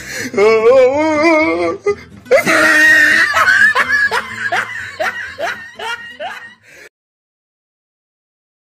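Comedy meme sound clip: a warbling, wavering voice, then a laugh of quick repeated strokes that fade out. It cuts to silence about seven seconds in.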